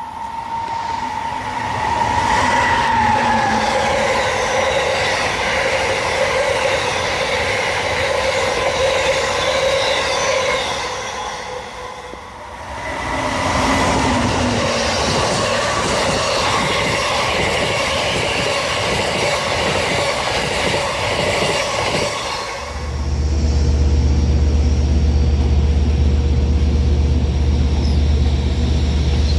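Amtrak passenger train running by on the rails: a loud, steady rush of wheels on track with high, steady ringing tones over it. About two-thirds of the way through, the sound changes abruptly to a steady, heavy low rumble.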